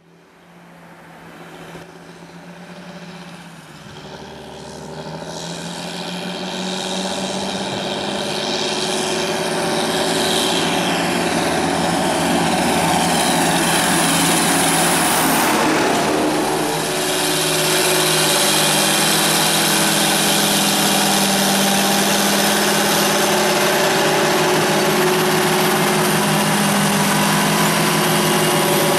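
Large farm tractor's diesel engine running under load while ploughing, fading in over the first several seconds and then holding steady. The pitch dips and glides briefly about halfway through.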